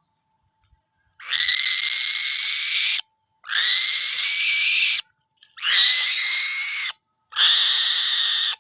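A bird of prey giving four long, harsh screeches, each lasting about one and a half seconds with short pauses between.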